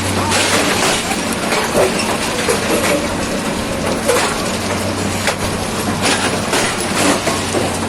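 Railway track renewal machinery at work: continuous crunching and clattering over a steady low engine hum, which drops away early and comes back about halfway through.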